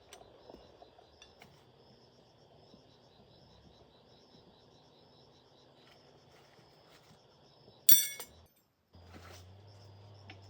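Insects trilling steadily in the background, and about eight seconds in a single sharp metallic clink that rings briefly; after a short break in the sound, a low steady hum.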